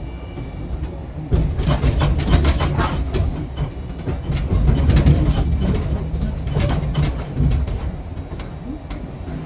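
Hiroshima Electric Railway streetcar running, its wheels clacking over the track points and rail joints with a low rumble underneath. The clatter starts about a second in and eases near the end.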